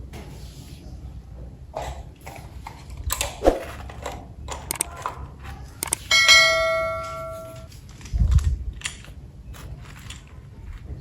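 Small clicks and knocks of toy parts being handled, with a single bell-like metallic ding about six seconds in that rings on for over a second as it fades.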